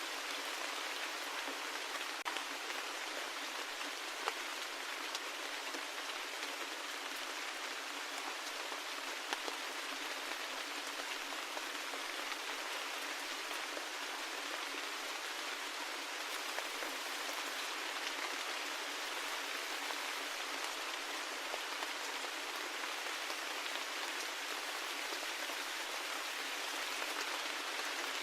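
Steady rain falling, an even hiss with a few sharper individual drop hits standing out now and then.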